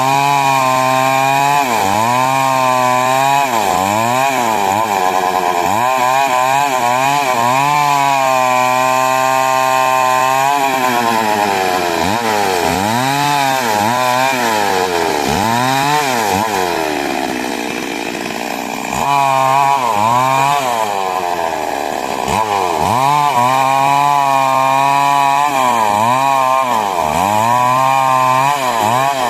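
Two-stroke chainsaw (a 382) running at high revs while cutting wood. The engine note repeatedly sags as the chain bites into the timber and recovers between cuts. It eases off to a lower, quieter note for a couple of seconds past the middle, then speeds up and cuts again.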